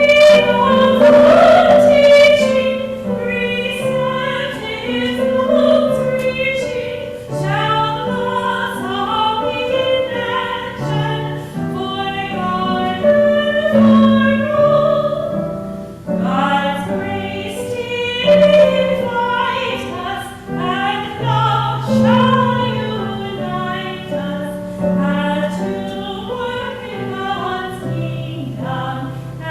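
Singing with instrumental accompaniment in church: a sung melody moving through held notes over sustained lower chords, typical of a hymn or anthem following the sermon.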